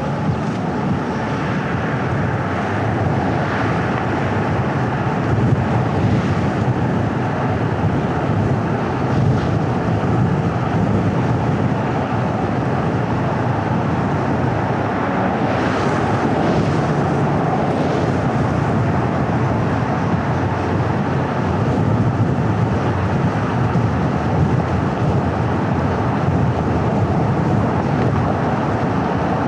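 Steady road noise of a car driving, tyre and engine rumble with some wind, with brief swells of higher hiss now and then.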